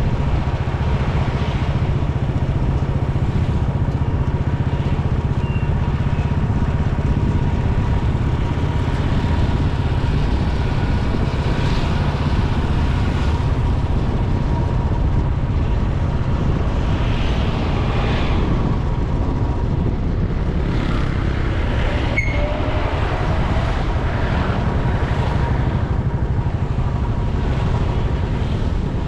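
Motorcycle engine and road noise running steadily while riding in traffic.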